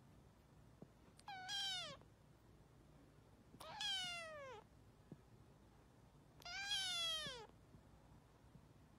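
White long-haired kitten meowing three times, each meow under a second long and falling in pitch.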